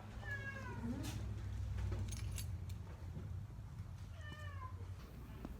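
Young puppy whining twice, each a short high cry that falls in pitch, a few seconds apart, over a low rumble.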